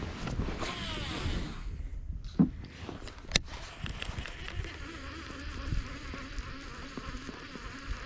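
Fishing reel during a cast and retrieve: a sweeping whir as line pays off the spool, a sharp click about three and a half seconds in as the reel is engaged, then a steady buzzing whir as the handle is cranked to bring the lure back.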